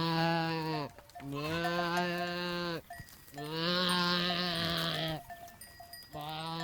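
A farm animal calling four times. Each call is long and evenly pitched, lasts about a second or more, and drops in pitch at its end.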